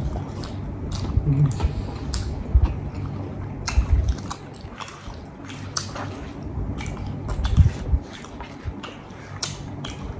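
Close-up biting and chewing of fried banana fritters topped with cheese and chocolate, with many short wet clicks and smacks of the mouth.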